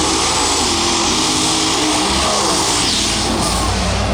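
Competition pulling vehicle's engine running hard at high power, a loud, steady engine noise.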